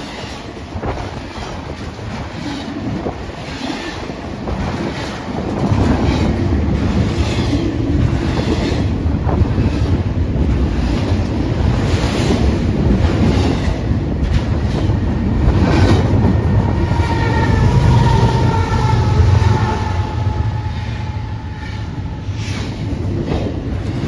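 Long Union Pacific double-stack container freight train passing close by, its steel wheels clacking over rail joints under a heavy rumble that grows louder about five seconds in. A faint high squeal, slowly falling in pitch, comes in over the last third.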